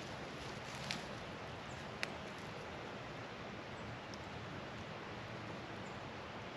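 Steady outdoor background hiss with two faint ticks, about one and two seconds in.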